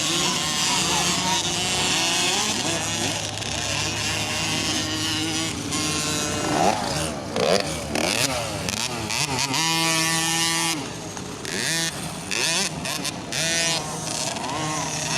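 Racing motorcycle engines revving, their pitch rising and falling as the throttle opens and closes, with one engine holding a steady high rev a little over halfway through.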